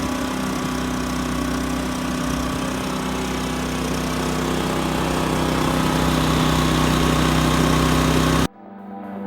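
Champion 3400 W dual fuel inverter generator's small single-cylinder engine running steadily under the load of an RV air conditioner. It cuts off abruptly near the end, where quiet ambient music begins.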